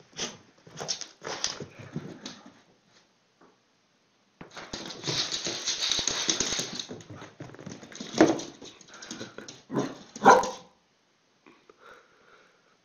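Dogs barking in short, sharp bursts, with a longer stretch of noisier scuffling and huffing in the middle.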